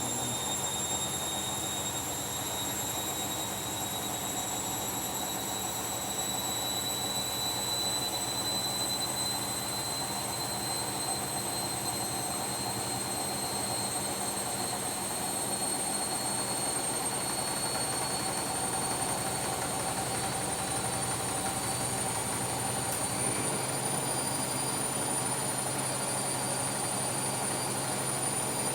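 Washing machine running, its motor whine rising slowly and evenly in pitch as the drum speeds up.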